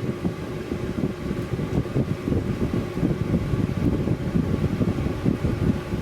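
Home-built wood stove and waste-oil heater burning hard at full burn temperature: a loud, unsteady low rumble from the fire in the firebox.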